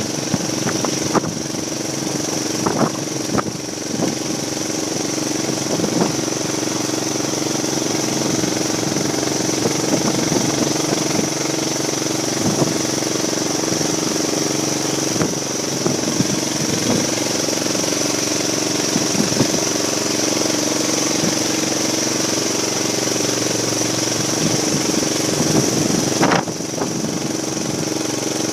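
Tractor engine running steadily, with short knocks and rattles over the first few seconds.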